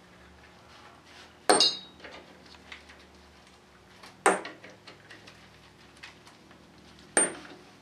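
Three sharp metallic clanks of metal tools or parts striking metal, each with a brief high ring, spaced about three seconds apart.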